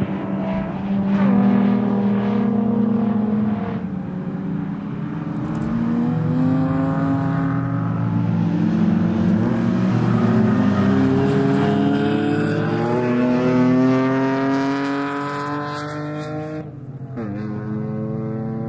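Nissan 350Z's V6 engine at full throttle on a race track. Its pitch climbs for long stretches and falls back between them, with a sharp drop near the end.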